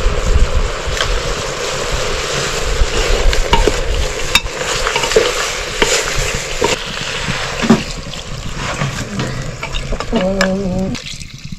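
Pork frying in a pan with a steady loud sizzle as it is stirred, the stirring utensil clacking against the pan every second or so. The sizzle thins out in the last few seconds.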